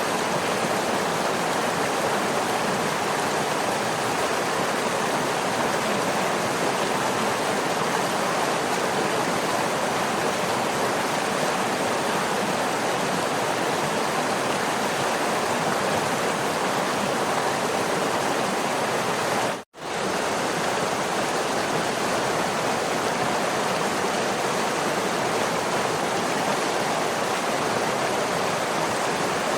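Steady, even rushing of a waterfall, strongest in the middle range. It drops out to silence for a split second about two-thirds of the way through.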